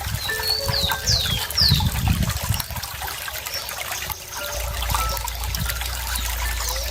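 Running water trickling steadily, with small birds calling over it; about half a second in comes a run of three quick, high chirps, each sweeping downward.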